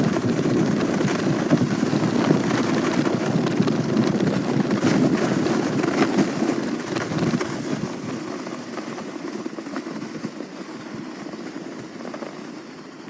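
A sled sliding fast over packed snow: a rough rushing scrape that slowly fades over the last few seconds as the sled slows down.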